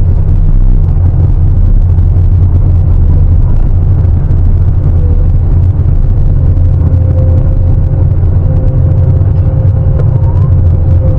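Heavy diesel engine of a Sany 750 excavator running steadily, a loud, deep continuous drone, with a faint steady whine above it in the second half.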